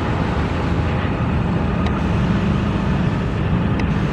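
A steady engine rumble with a constant low hum, holding even throughout.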